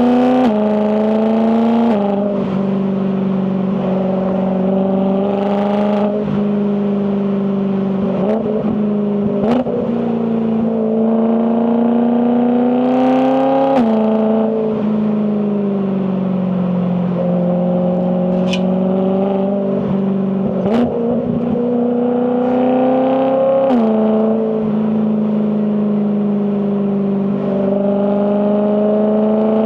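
BMW E92 M3's S65 V8 engine and exhaust driving under moderate throttle, the revs climbing slowly and then dropping suddenly three or four times as the dual-clutch gearbox shifts, with a few short crackles along the way.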